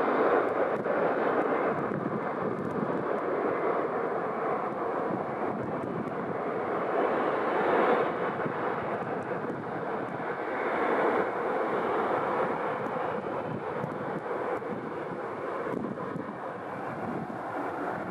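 Jet airliner engines running, a steady rushing noise that swells and eases a little.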